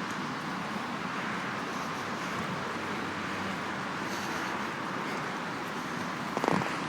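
Steady hiss of a wet street outdoors: rain and traffic on a wet road. A couple of short knocks come about six and a half seconds in.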